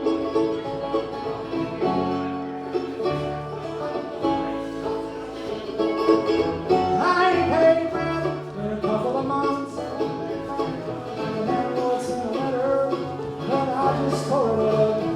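Live bluegrass band playing an instrumental break between sung verses, banjo and guitar picking over a moving bass line.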